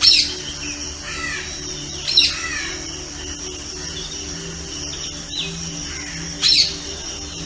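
Several birds calling, with three loud, harsh calls a few seconds apart and many short falling chirps between them, over a low steady hum.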